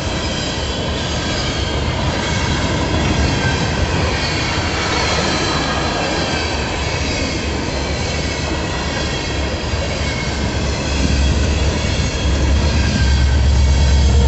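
Coal train hopper cars rolling past at speed, a steady rumble with a thin high squeal from the wheels. In the last few seconds a deep low engine rumble grows louder as a mid-train distributed-power diesel locomotive draws near.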